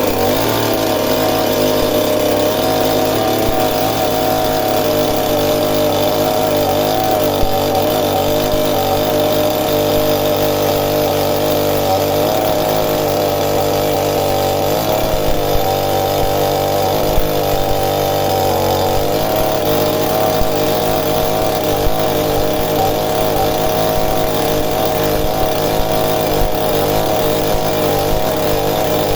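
Chainsaw running steadily at high revs while cutting into a wooden stump, its pitch wavering slightly as the chain bites.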